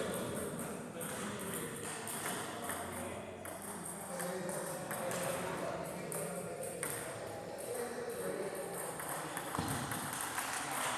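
Table tennis ball clicking back and forth against bats and table in rallies, over the chatter of voices in a large hall.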